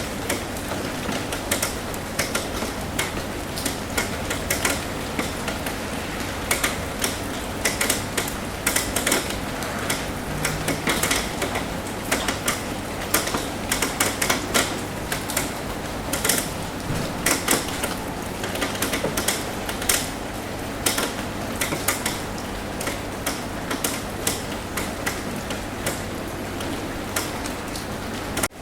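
Rain on a roof: a steady hiss of rainfall with many irregular, sharp taps of drops striking the roof, a few every second, over a faint steady low hum.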